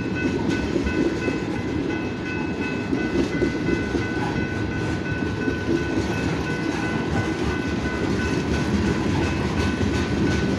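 Freight train cars, many of them tank cars, rolling past: a steady rumble of wheels on rail, with thin, steady high ringing tones over it throughout.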